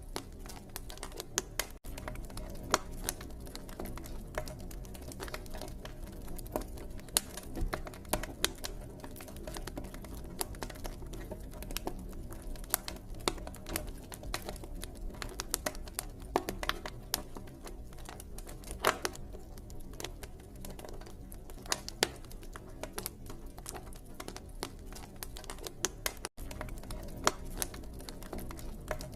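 Wood campfire burning, with irregular sharp crackles and pops over a low, steady rumble of the flames.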